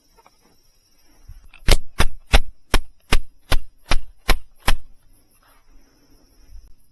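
A hammer striking a tent peg nine times in steady succession, about two and a half blows a second, driving the peg into the ground while pitching a tarp.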